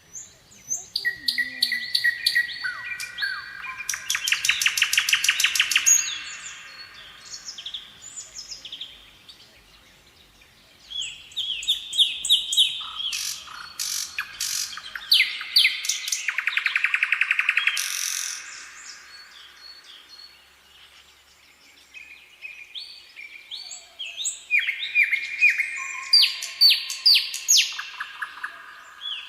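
A songbird singing three long bouts of quickly repeated chirps, phrase after phrase at changing pitches, each bout with a fast trill, with pauses of a few seconds between.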